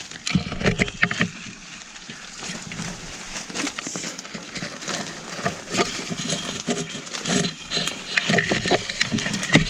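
Footsteps pushing through forest undergrowth, with twigs and brush crackling, snapping and rustling in quick, irregular succession.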